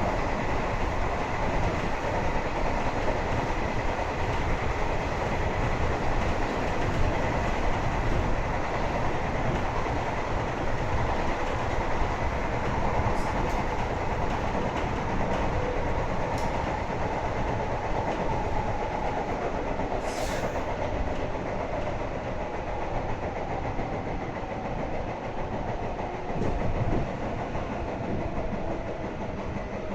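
Electric train running on the Meitetsu Airport Line, heard from inside the car: a steady rumble of wheels on rail with a faint whine, and a brief hiss about twenty seconds in. It gets a little quieter near the end.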